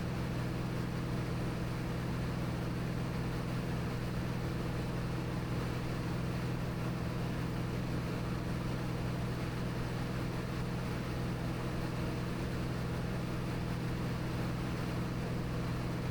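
Cabin drone of a Cirrus SR22T's turbocharged six-cylinder Continental engine and propeller at steady climb power: an unbroken low hum with a few steady pitched tones over a wash of noise.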